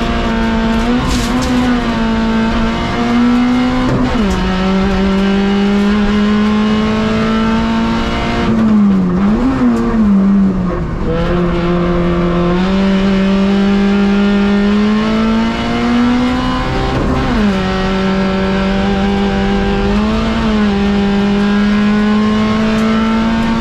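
Peugeot 106 Rallye race car's four-cylinder engine, heard from inside the cabin, running hard. Its pitch holds fairly level and drops about six times at gear changes.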